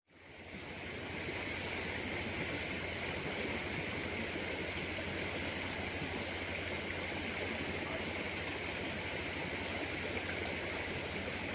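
Steady rushing of water flowing in a stream, fading in over the first second.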